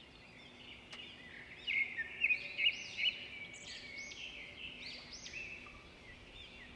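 Songbirds singing: a run of quick, varied chirps and whistled notes over faint outdoor hiss, loudest between about two and three seconds in.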